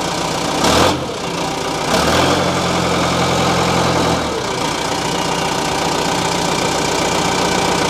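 John Deere 310G backhoe's four-cylinder diesel engine idling steadily, running smoothly without stuttering on fuel drawn through a line dipped straight into the tank. There is a brief louder noise just under a second in, and the engine note deepens for about two seconds after that.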